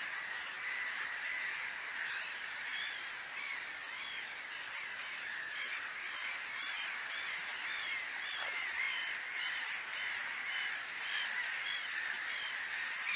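Birds singing and calling steadily, with many short, quickly repeated chirps over a continuous chattering.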